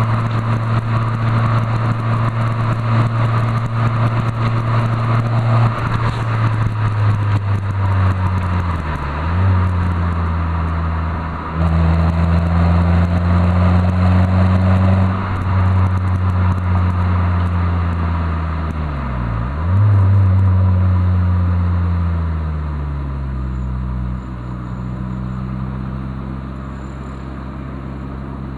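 Renault Clio III GT Gordini 1.6 16V four-cylinder engine running through a Supersprint centre pipe and rear exhaust while driving, holding a steady engine note. The note dips sharply in pitch and comes back twice, then drops to a lower, quieter note near the end.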